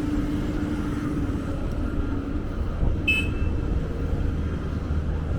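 Steady low rumble of a running vehicle, with one short high-pitched squeak about three seconds in.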